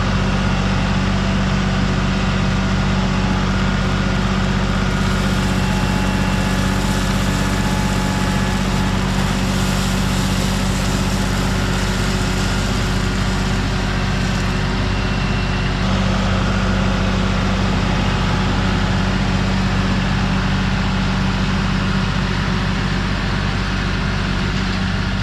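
LS MT240 compact tractor's diesel engine running at a steady speed, its pitch and loudness holding constant throughout.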